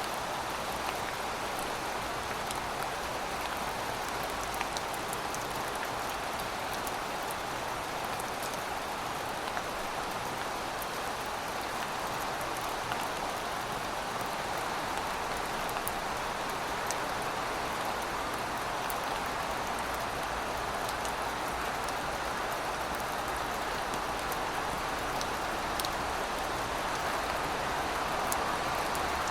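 Steady rainfall: an even hiss of rain with scattered drop ticks.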